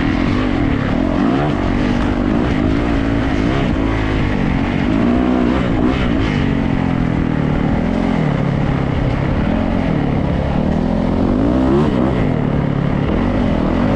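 Yamaha YZ450F dirt bike's single-cylinder four-stroke engine running hard on a trail ride, its revs rising and falling over and over as the rider works the throttle and gears.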